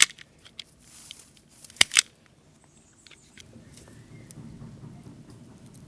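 Hand-work noise: a sharp click at the start and two more in quick succession about two seconds in, then soft steady rustling from handling.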